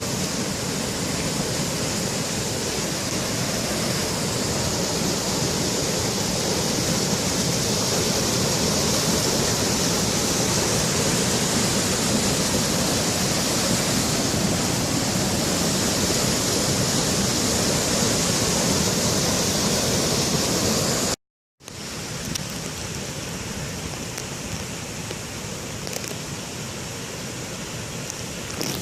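Floodwater from a lake overtopping a dam, a steady loud rush of pouring water. Partway through it cuts out for an instant and comes back quieter, a weaker flow over the same point.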